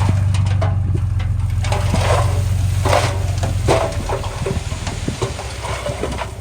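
Diesel earthmoving machine's engine running with a steady low hum, under many short crackles and clicks of stones and soil crunching and rattling. The engine hum drops back about four seconds in.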